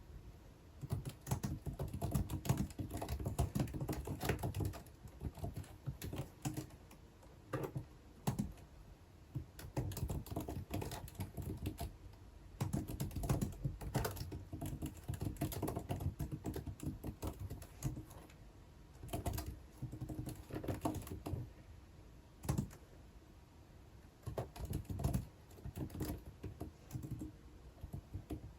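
Typing on a computer keyboard: quick runs of key clicks that stop and start again, with short pauses every several seconds.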